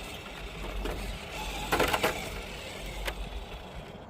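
Capra-based RC rock crawler's small electric motor and gears whirring as it creeps over rock, with a louder rough scrape about two seconds in and a few sharp clicks.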